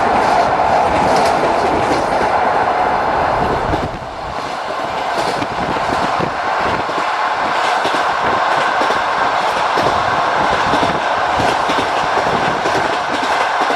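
Passenger train running, its wheels clattering over the rails, heard from inside a carriage at the window. About four seconds in the low rumble drops away, leaving a steadier higher rushing noise.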